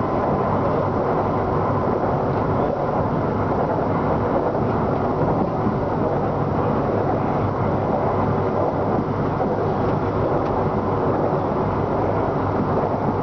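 Inside a BTS Skytrain car running at speed on the elevated line: steady rolling noise of the train on its rails.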